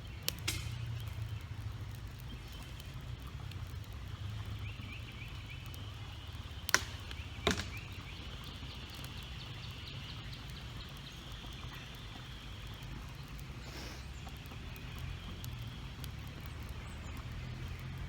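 Outdoor ambience: a steady low rumble with faint high trilling calls, and two sharp clicks about seven seconds in.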